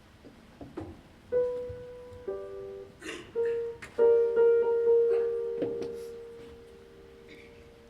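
Piano playing a few single notes and then a chord, leaving one note ringing that slowly fades.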